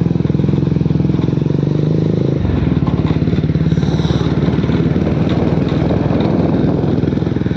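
Motorcycle engine running while riding, a steady pulsing note whose pitch changes abruptly about two and a half seconds in.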